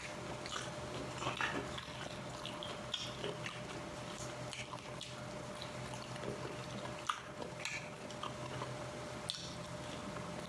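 A person eating close to the microphone: wet chewing with scattered mouth clicks and smacks, over a steady low hum.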